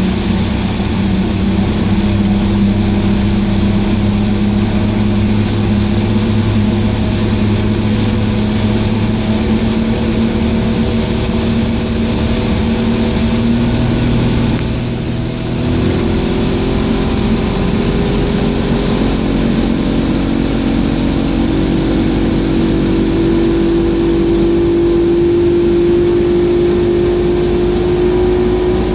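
Suzuki DT225 two-stroke V6 outboard running under way with steady throttle. About halfway through the level dips briefly and the engine note then steps up a little and keeps creeping higher.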